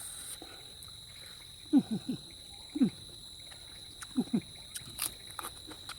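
A steady high insect drone runs throughout. Over it come short calls that drop sharply in pitch: three in quick succession about two seconds in, one a second later, and a pair past the middle. Faint clicks sound here and there.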